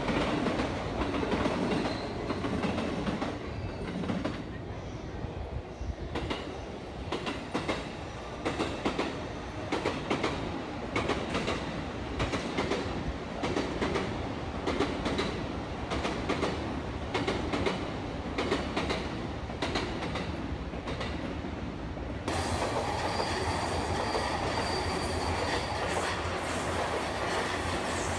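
JR commuter electric trains running through a station, steel wheels clicking over rail joints in an irregular run of clacks, with a thin wheel squeal in the last few seconds.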